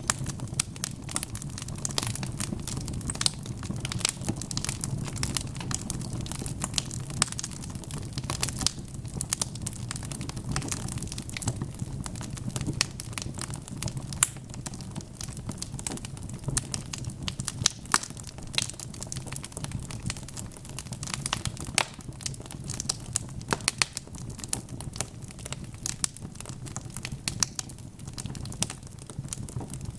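Wood logs burning in a fireplace, crackling with frequent irregular sharp pops over a steady low rumble of the flames.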